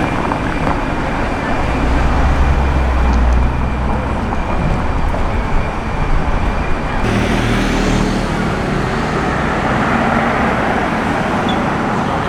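City street traffic: car engines running and tyre noise, with a deep engine rumble a couple of seconds in. The sound changes abruptly about halfway through, after which an engine hum continues under the traffic.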